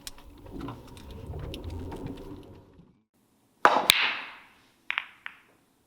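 A faint low rumble fades out. Then comes a sharp clack of billiard balls with a short rattling decay, followed about a second later by two lighter ball clicks.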